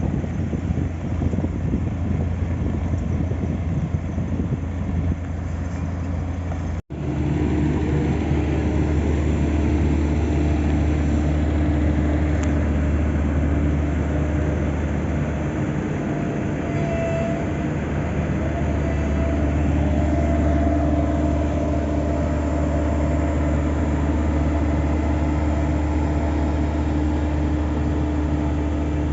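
Heavy diesel engines of road-paving machinery running steadily with a low, even drone. The sound cuts out for an instant about seven seconds in, then goes on much the same.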